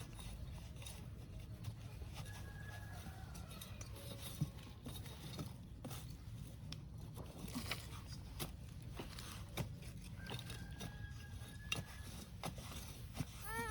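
Scattered scrapes and knocks of a hand tool digging into soil, over a low steady rumble.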